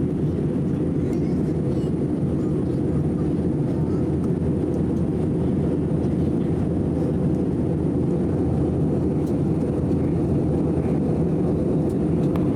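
Steady low roar of an airliner cabin during descent to landing: engine and airflow noise.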